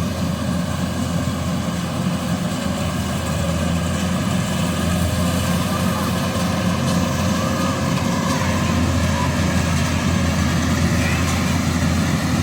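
Combine harvester's engine running steadily: a continuous low drone.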